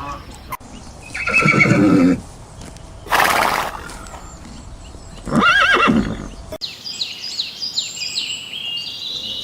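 Horse whinnying twice, with a short breathy noise between the two calls; the second whinny wavers up and down in pitch. After an abrupt cut near the end, a run of high, rapidly falling chirps from another animal.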